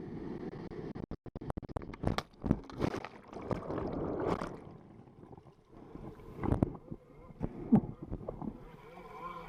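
Rushing wind on the microphone and water splashing as an inflatable tube is towed at speed behind a jetski, in irregular bursts, with a few short shouts.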